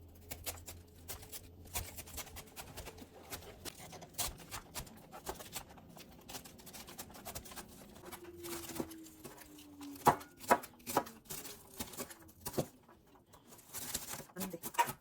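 Scattered light clicks and taps of small objects being handled, thicker and louder in the second half, with a faint low hum in the first two seconds and a faint falling tone about two-thirds of the way through.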